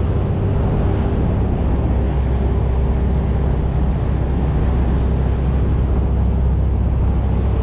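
Passenger boat's engines running with a steady low drone and a faint steady hum above it, over a constant rush of noise.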